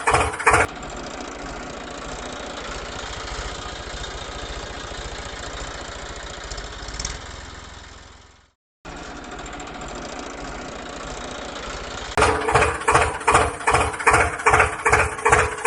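An engine running steadily with a fine, even pulse. It fades out about eight seconds in, breaks off briefly, then resumes. Music with a strong beat plays at the very start and takes over from about twelve seconds in.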